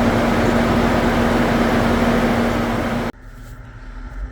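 2008 Saturn Vue running with its air conditioning on during a refrigerant recharge: a loud, steady engine-bay noise with a steady hum. The A/C compressor is running continuously, no longer cycling on and off, a sign the system is close to fully charged. The sound cuts off abruptly about three seconds in.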